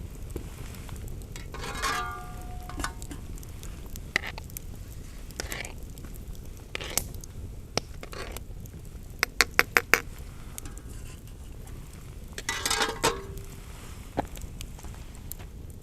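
Metal utensil clinking and tapping against a cooking pot: scattered knocks, a quick run of about six taps near the middle, and two ringing clinks, one about two seconds in and one near the end.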